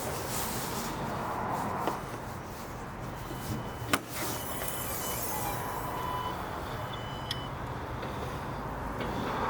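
A car's engine running steadily, with a faint click about two seconds in and a sharp click about four seconds in.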